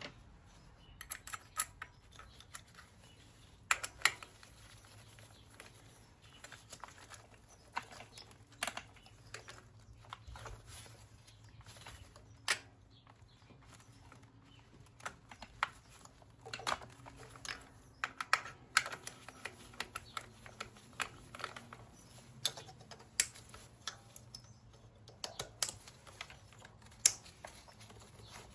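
Irregular clicks, taps and clinks of hand tools and small parts being handled while engine-bay components are reconnected.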